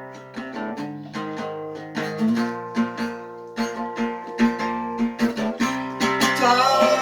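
Acoustic guitar strumming and picking chords in a steady rhythm as a song accompaniment; a singing voice comes in near the end.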